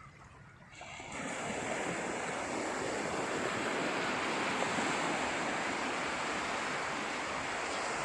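Sea surf washing onto the beach, a steady rushing that comes in fairly suddenly about a second in.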